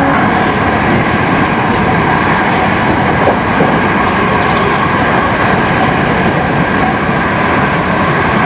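Hankyu 7000-series electric train running on the line, heard from inside the passenger car: a steady, loud rumble of wheels on the rails.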